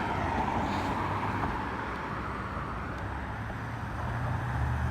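Steady road traffic noise, with a low vehicle engine hum growing louder near the end as a vehicle draws near.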